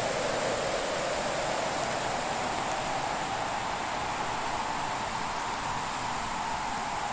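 Fireplace ambience: a steady rushing hiss, its pitch drifting slowly upward.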